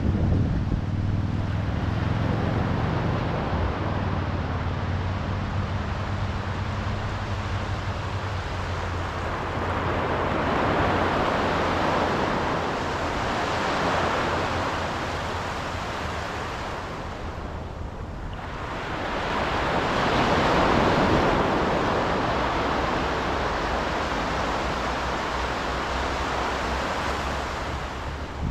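Ocean waves breaking and washing ashore, the surf swelling and falling back in slow surges with a brief lull between two of them, and wind rumbling on the microphone in the first few seconds.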